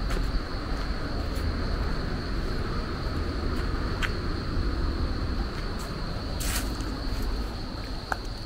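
Steady low rumble of wind on the microphone, with a continuous high-pitched insect trill over it and a few faint clicks.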